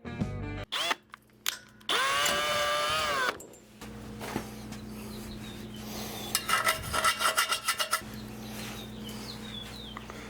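An electric drill spins up and runs for about a second and a half, enlarging a hole in a steel exhaust pipe to take an exhaust gas temperature probe, with clicks and scraping of the bit on the metal around it. Later comes a short run of rapid ticking.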